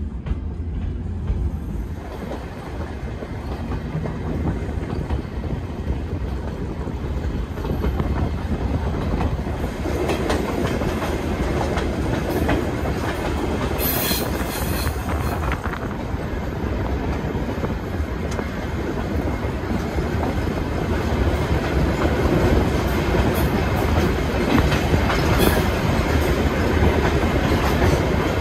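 Passenger train running on the rails: a steady rumble of wheels on track that grows gradually louder.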